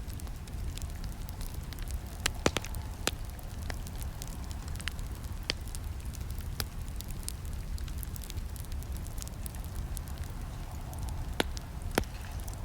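Campfire crackling: a steady low rumble of burning wood with scattered sharp pops and snaps, the loudest about two and a half seconds in and again near the end.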